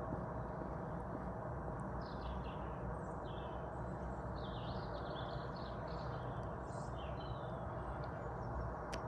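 Small birds chirping in short twittering bursts over a steady low background rumble, the chirps clustered from about two seconds in until near the end.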